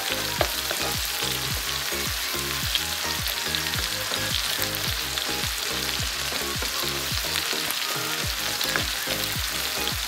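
Chicken pieces and egg sizzling in butter and oil in a large frying pan, while a spatula stirs and breaks up the egg. Electronic background music with a steady beat runs underneath.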